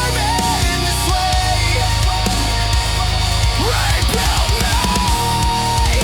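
Instrumental heavy metal (metalcore): distorted guitars and a drum kit with a pounding low end, a sustained lead line on top and a run of fast bass-drum hits in the middle.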